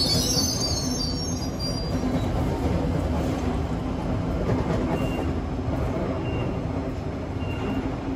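Sydney Trains Waratah double-deck electric train pulling out and curving away, its wheels squealing on the curve in the first couple of seconds over a steady rumble of wheels on the rails that slowly fades as it recedes. A faint short high beep repeats about once a second in the second half.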